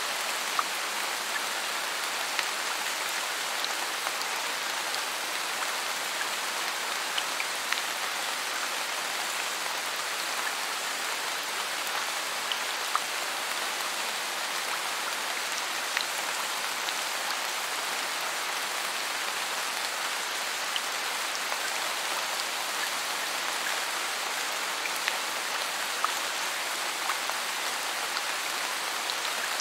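Steady rain, an even hiss that does not let up, with faint ticks scattered through it.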